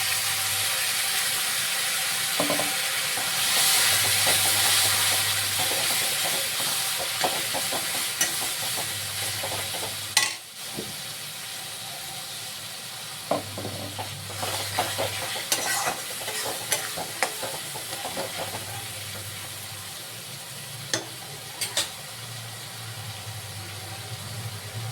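Chicken sizzling as it fries in a pan, stirred with a spoon that clicks and knocks against the pan now and then. The sizzle is loudest in the first several seconds and quieter after a sharp knock about ten seconds in.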